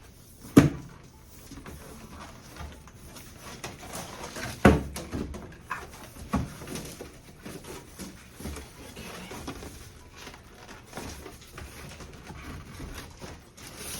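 Cardboard box and packaging of a toaster oven being handled and opened: scraping, rustling and small knocks, with two sharp thumps, one about half a second in and one near five seconds in.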